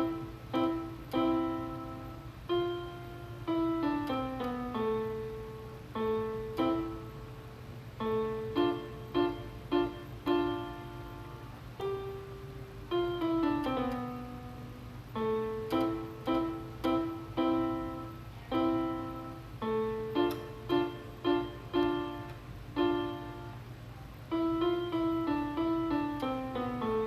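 Piano played solo by a young student: a simple melody of separate struck notes that ring and fade, with short runs stepping down in pitch and brief pauses between phrases. A steady low hum runs underneath.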